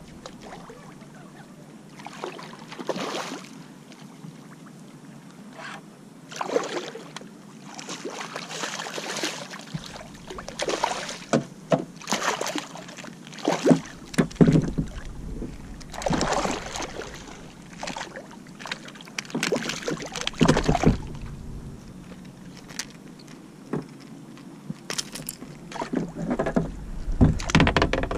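Water splashing and sloshing against a kayak, in irregular bursts.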